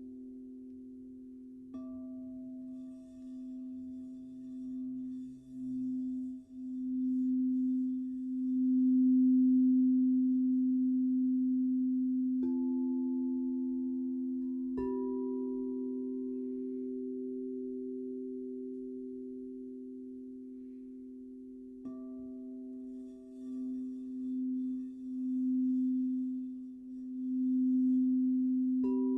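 Crystal singing bowls: a low bowl holds one long pure tone that swells and wavers in loudness, while other bowls are struck about five times, each strike adding a higher ringing tone that rings on.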